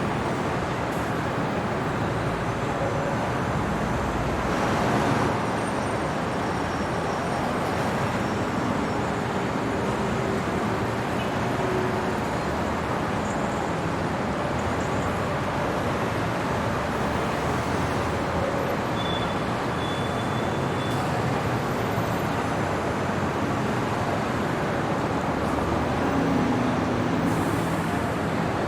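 Steady city traffic noise, a continuous wash of vehicles on roads, with a slight swell in loudness about five seconds in and again near the end, as of a vehicle passing closer.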